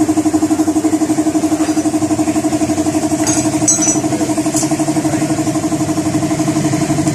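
A small motorcycle engine idling steadily with an even, rapid pulse. A few light clicks come about three and a half seconds in.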